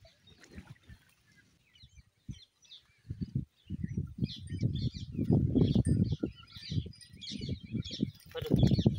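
Small birds chirping from about three and a half seconds in, over a low, uneven rumble that starts about three seconds in and is the loudest sound.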